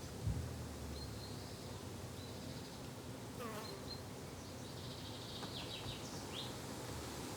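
Flying insects buzzing steadily in a garden, with short high bird chirps scattered over it. There is one brief low thump just after the start.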